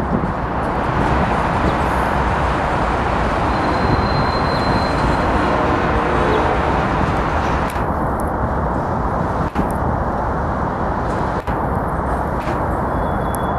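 Freight cars of a Union Pacific train rolling past on the rails, a steady rumble of wheels and cars.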